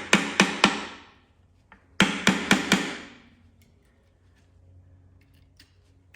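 Two quick runs of about four hammer blows on metal, each blow ringing briefly: a wedge is being driven in to work a tight Muncie transmission off the engine, a fit the owner suspects is corroded.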